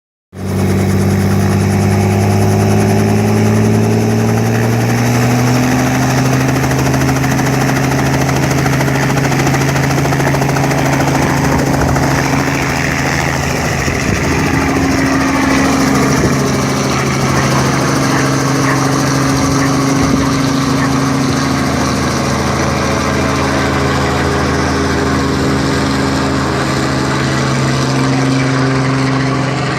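Robinson R44 Raven II helicopter running for takeoff: its six-cylinder Lycoming piston engine and rotor make a steady, loud drone that rises a little in pitch over the first several seconds, then holds.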